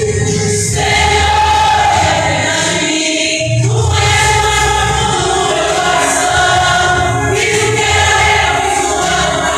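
Gospel choir singing a Christian hymn with accompanying music, in sustained sung phrases with short breaks between lines.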